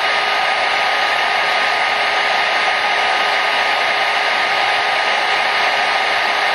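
Hair dryer running steadily: a constant rush of blown air with a faint steady hum from its motor.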